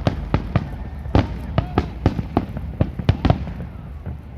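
Fireworks going off in quick, irregular bangs, several a second, thinning out after about three seconds.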